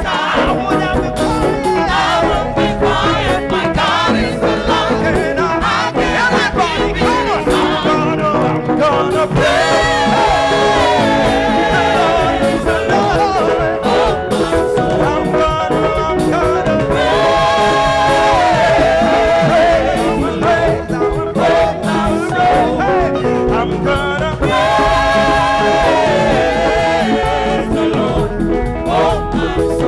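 Upbeat live gospel praise music from a church band with singing, steady and loud.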